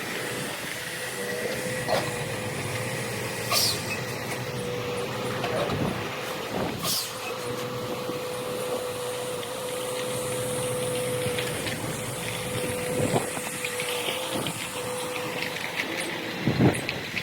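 Semi truck running at low speed while maneuvering, a steady engine hum with a few short, sharp hisses of air.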